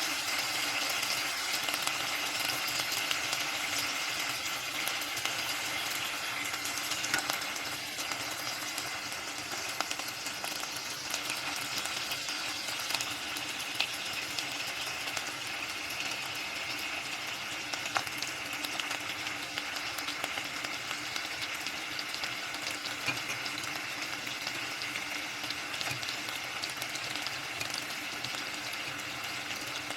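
Food frying in a pan: a steady sizzle with scattered sharp pops and crackles, easing slightly after the first several seconds.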